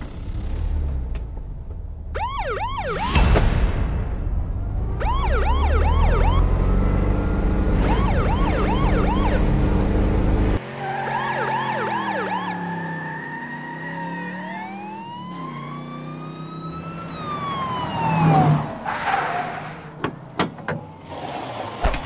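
Police car siren yelping in rapid rising-and-falling sweeps over a low engine rumble. About halfway through the rumble drops away, leaving steadier siren tones and long sliding glides in pitch, with a few sharp clicks near the end.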